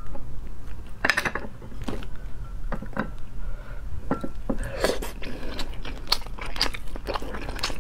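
A person biting and chewing sea snail meat close to a lapel microphone: an irregular series of sharp mouth clicks and chewing sounds.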